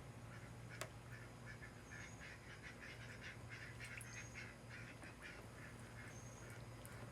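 Young mallard ducks, about four months old, quacking softly in quick runs of short calls, over a steady low hum, with one sharp click about a second in.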